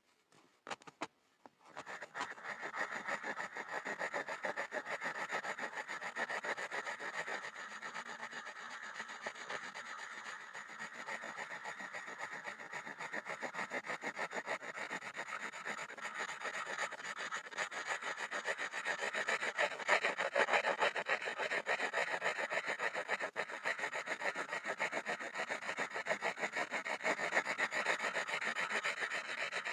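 Pencil scribbling on a wooden board: quick back-and-forth scratching strokes that run on without a break, starting after a short pause about two seconds in.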